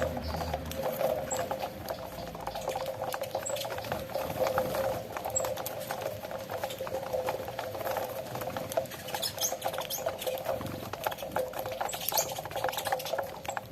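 Saffron finches pecking at cracked corn grits: a dense, irregular patter of tiny clicks, with a few short high chirps.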